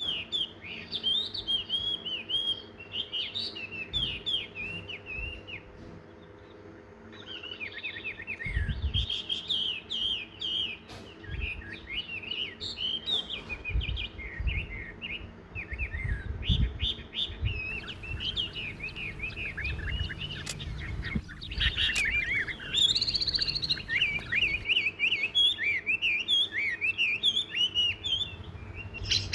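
Several small songbirds chirping and twittering in a dense, busy chorus of quick high chirps, thinning briefly about five seconds in, with a few low thuds underneath.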